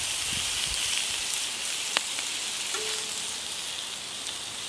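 Ham slices and burger patties sizzling on the hot steel plate of a gas plancha: a steady frying hiss, with one sharp click about two seconds in.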